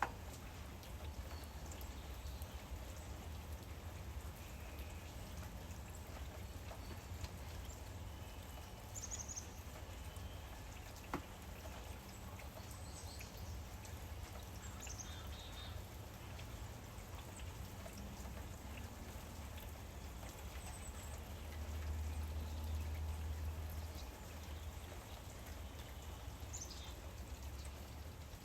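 Steady rain patter, with a few brief, high bird chirps scattered through it and a low rumble that swells for a couple of seconds past the middle. A single sharp tick sounds about a third of the way in.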